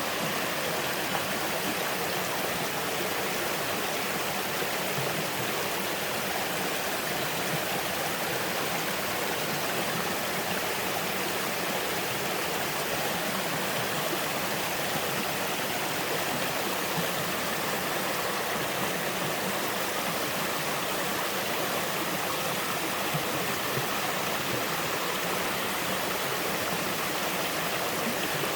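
Two-tier mountain waterfall: a steady, unbroken rush of falling and splashing water.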